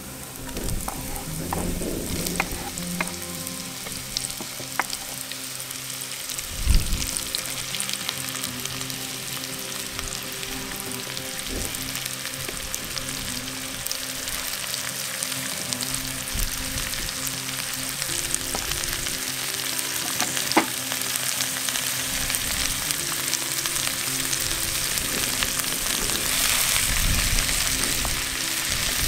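Sliced button mushrooms and garlic sizzling steadily in hot oil in a pot, with a wooden spoon scraping and stirring them. There is a single loud thump about seven seconds in.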